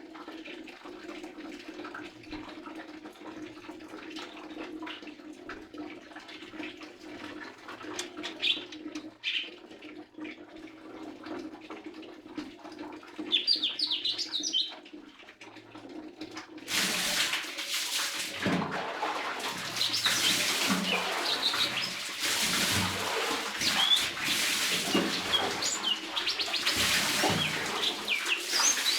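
Lesser green leafbird giving short, high chirps, sparse at first over a steady low hum. A little past halfway a loud, even rushing noise like running or splashing water starts suddenly, and the chirps come thick and fast over it.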